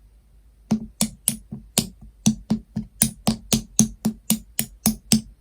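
Jelly slime being pressed and squeezed, giving a quick, regular series of sharp pops and clicks, about four a second, that starts under a second in and stops shortly before the end.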